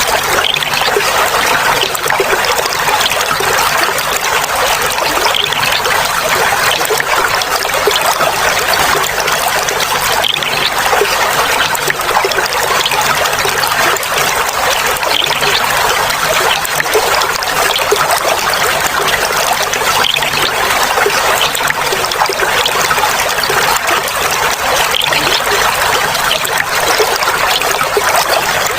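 Clear water flowing and trickling steadily, a continuous babbling splash with small bright droplet sounds.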